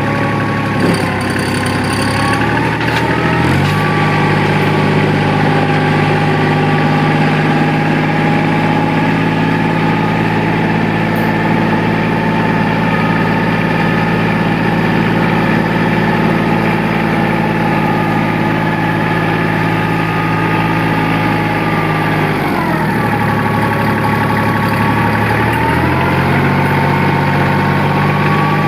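Tractor engine running steadily, its speed stepping up a few seconds in, then dropping off about three quarters of the way through and climbing back up a few seconds later.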